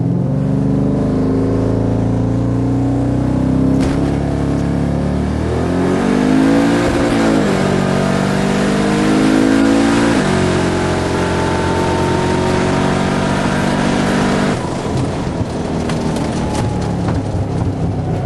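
Twin-turbocharged V8 of a 1995 Mustang Cobra at full throttle on a drag strip pass. The engine note climbs with gear changes near 4 and 10 seconds in, surges up and back down around 7 seconds, and drops off about 15 seconds in as the throttle is lifted.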